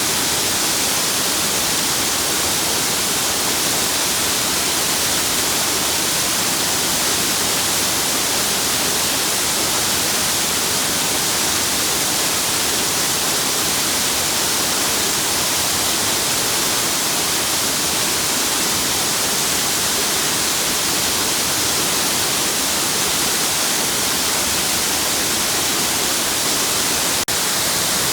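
Waterfall pouring, a steady loud rush of falling water, with a momentary break about 27 seconds in.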